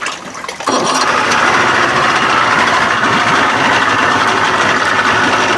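A 1992 Johnson 60 hp two-stroke outboard engine comes in suddenly about a second in and then runs steadily at idle.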